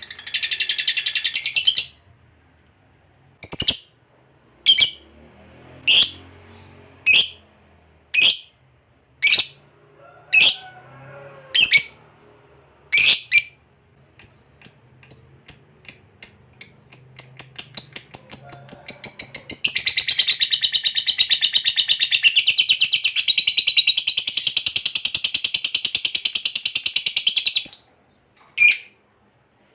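Lovebird calling in a long 'ngekek' chatter. It opens with a brief burst of rapid high chatter, then gives single sharp calls about once a second. These speed up into a fast run that merges into a continuous high trill lasting about eight seconds, and it ends with two more single calls. This long unbroken ngekek is the song style that hobbyists prize and play to other lovebirds as a model to copy.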